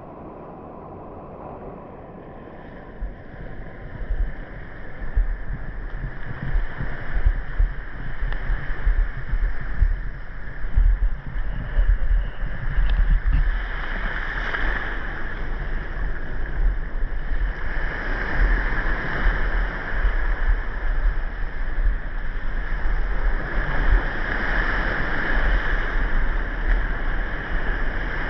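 Underwater ambient sound of water surging and sloshing around the camera, a steady wash with frequent low rumbling thumps, building up over the first few seconds.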